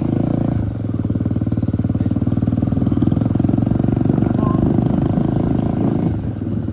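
Bajaj Dominar 250's single-cylinder engine running loud and rough through an opened-up exhaust while the bike is ridden. The loudness dips briefly near the start and again near the end.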